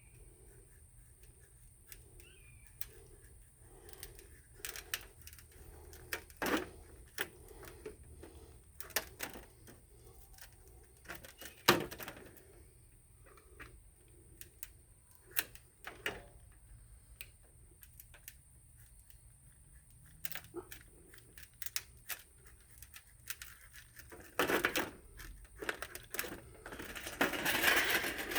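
Irregular clicks and light metal taps from hand work on a thin sheet-metal skid plate, with a short scraping rush near the end.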